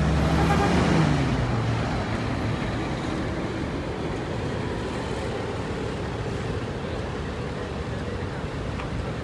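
City avenue traffic: a vehicle's engine drones past in the first second or two, dipping in pitch as it goes by, then a steady traffic rumble.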